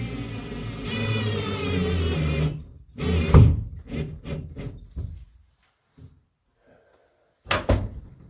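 A tool whirring for a couple of seconds, then a loud knock and several lighter knocks and clunks, with another sharp double knock near the end.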